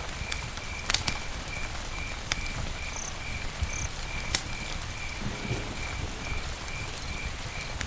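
Campfire crackling: scattered sharp pops and snaps over a steady low rush. A cricket chirps in an even pulse, about three chirps a second, throughout.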